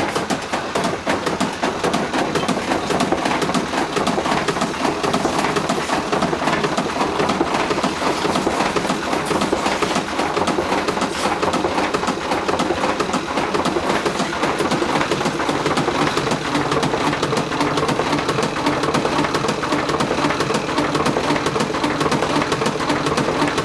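Washing machine shaking violently in its spin, its cabinet rattling and knocking many times a second without pause. Shaking hard enough to 'dance' is typical of an unbalanced load in the spin cycle.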